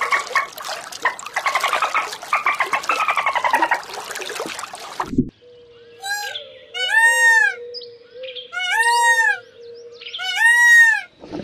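Bottlenose dolphin clicking fast, with buzzy falling whistles mixed in. About five seconds in it changes to an Indian peacock calling three times: loud wailing calls that rise and fall, each with a shorter call just before it.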